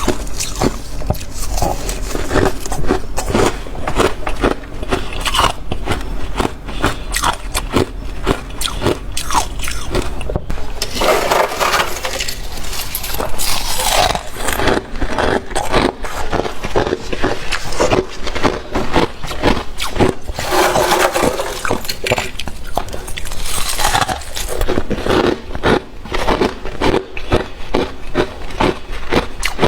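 Freezer frost being bitten and chewed close to the microphone: a continuous run of crisp crunches, with a few heavier chewing passes now and then.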